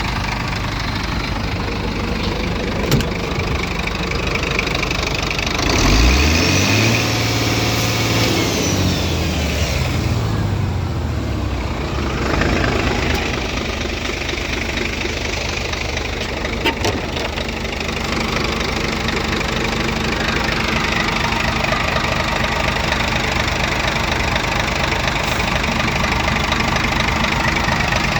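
Scania 114 380 truck's straight-six diesel idling, revved up once about six seconds in, held there for a couple of seconds, then settling back to idle.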